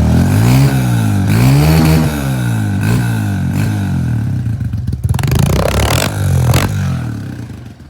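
125 cc dirt bike engine revved hard several times, its pitch climbing and falling with each blip of the throttle, then dropping away near the end.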